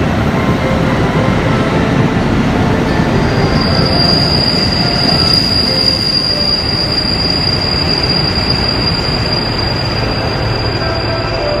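KiHa 85 diesel railcar train running past along the platform track with a steady rumble. A steady high-pitched wheel squeal starts about three seconds in and holds.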